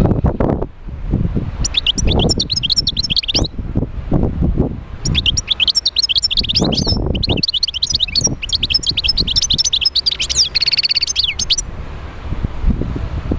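European goldfinch singing: two rapid twittering phrases, the second long and ending with a held buzzy note. Low rumbling noise with thumps runs underneath.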